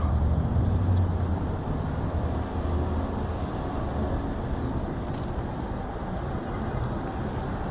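Electric hyperscooter being ridden off-road: a steady rush of wind on the helmet microphone and tyre rumble over the trail. The low rumble is heavier for about the first second and a half, then eases.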